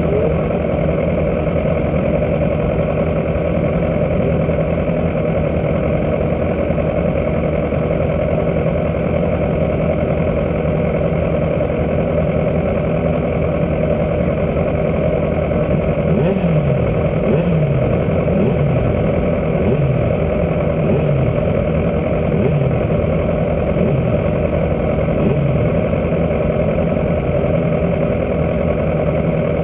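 Racing superbike engine idling steadily, heard from on board. In the second half come a series of short throttle blips, the pitch dropping back after each.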